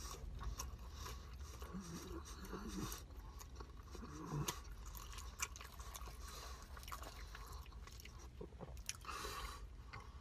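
A person chewing food close to the microphone: faint, wet mouth sounds with small crunches and clicks, and a short hum or two in the first half.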